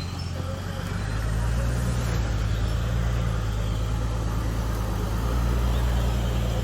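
Off-road 4x4 vehicle's engine running with a steady low drone, getting louder about a second in and holding there.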